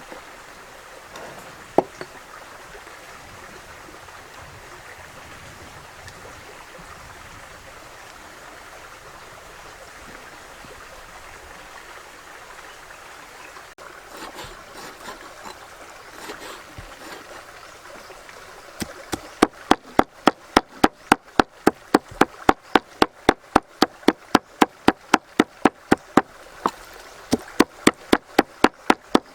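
Steady trickling of flowing water, then from about two-thirds through, a knife chopping rapidly and evenly on a cutting board, about three strokes a second.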